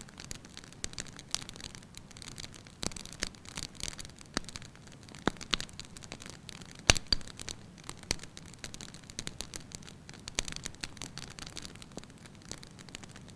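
Wood fire crackling in a fireplace: irregular snaps and pops over a soft hiss, with one sharp, loud pop about seven seconds in.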